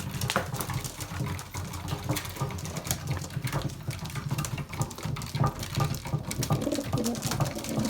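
Pigeons pecking grain from a feeding tray: a dense, irregular patter of small beak-on-seed clicks and rattling, over a low rumble.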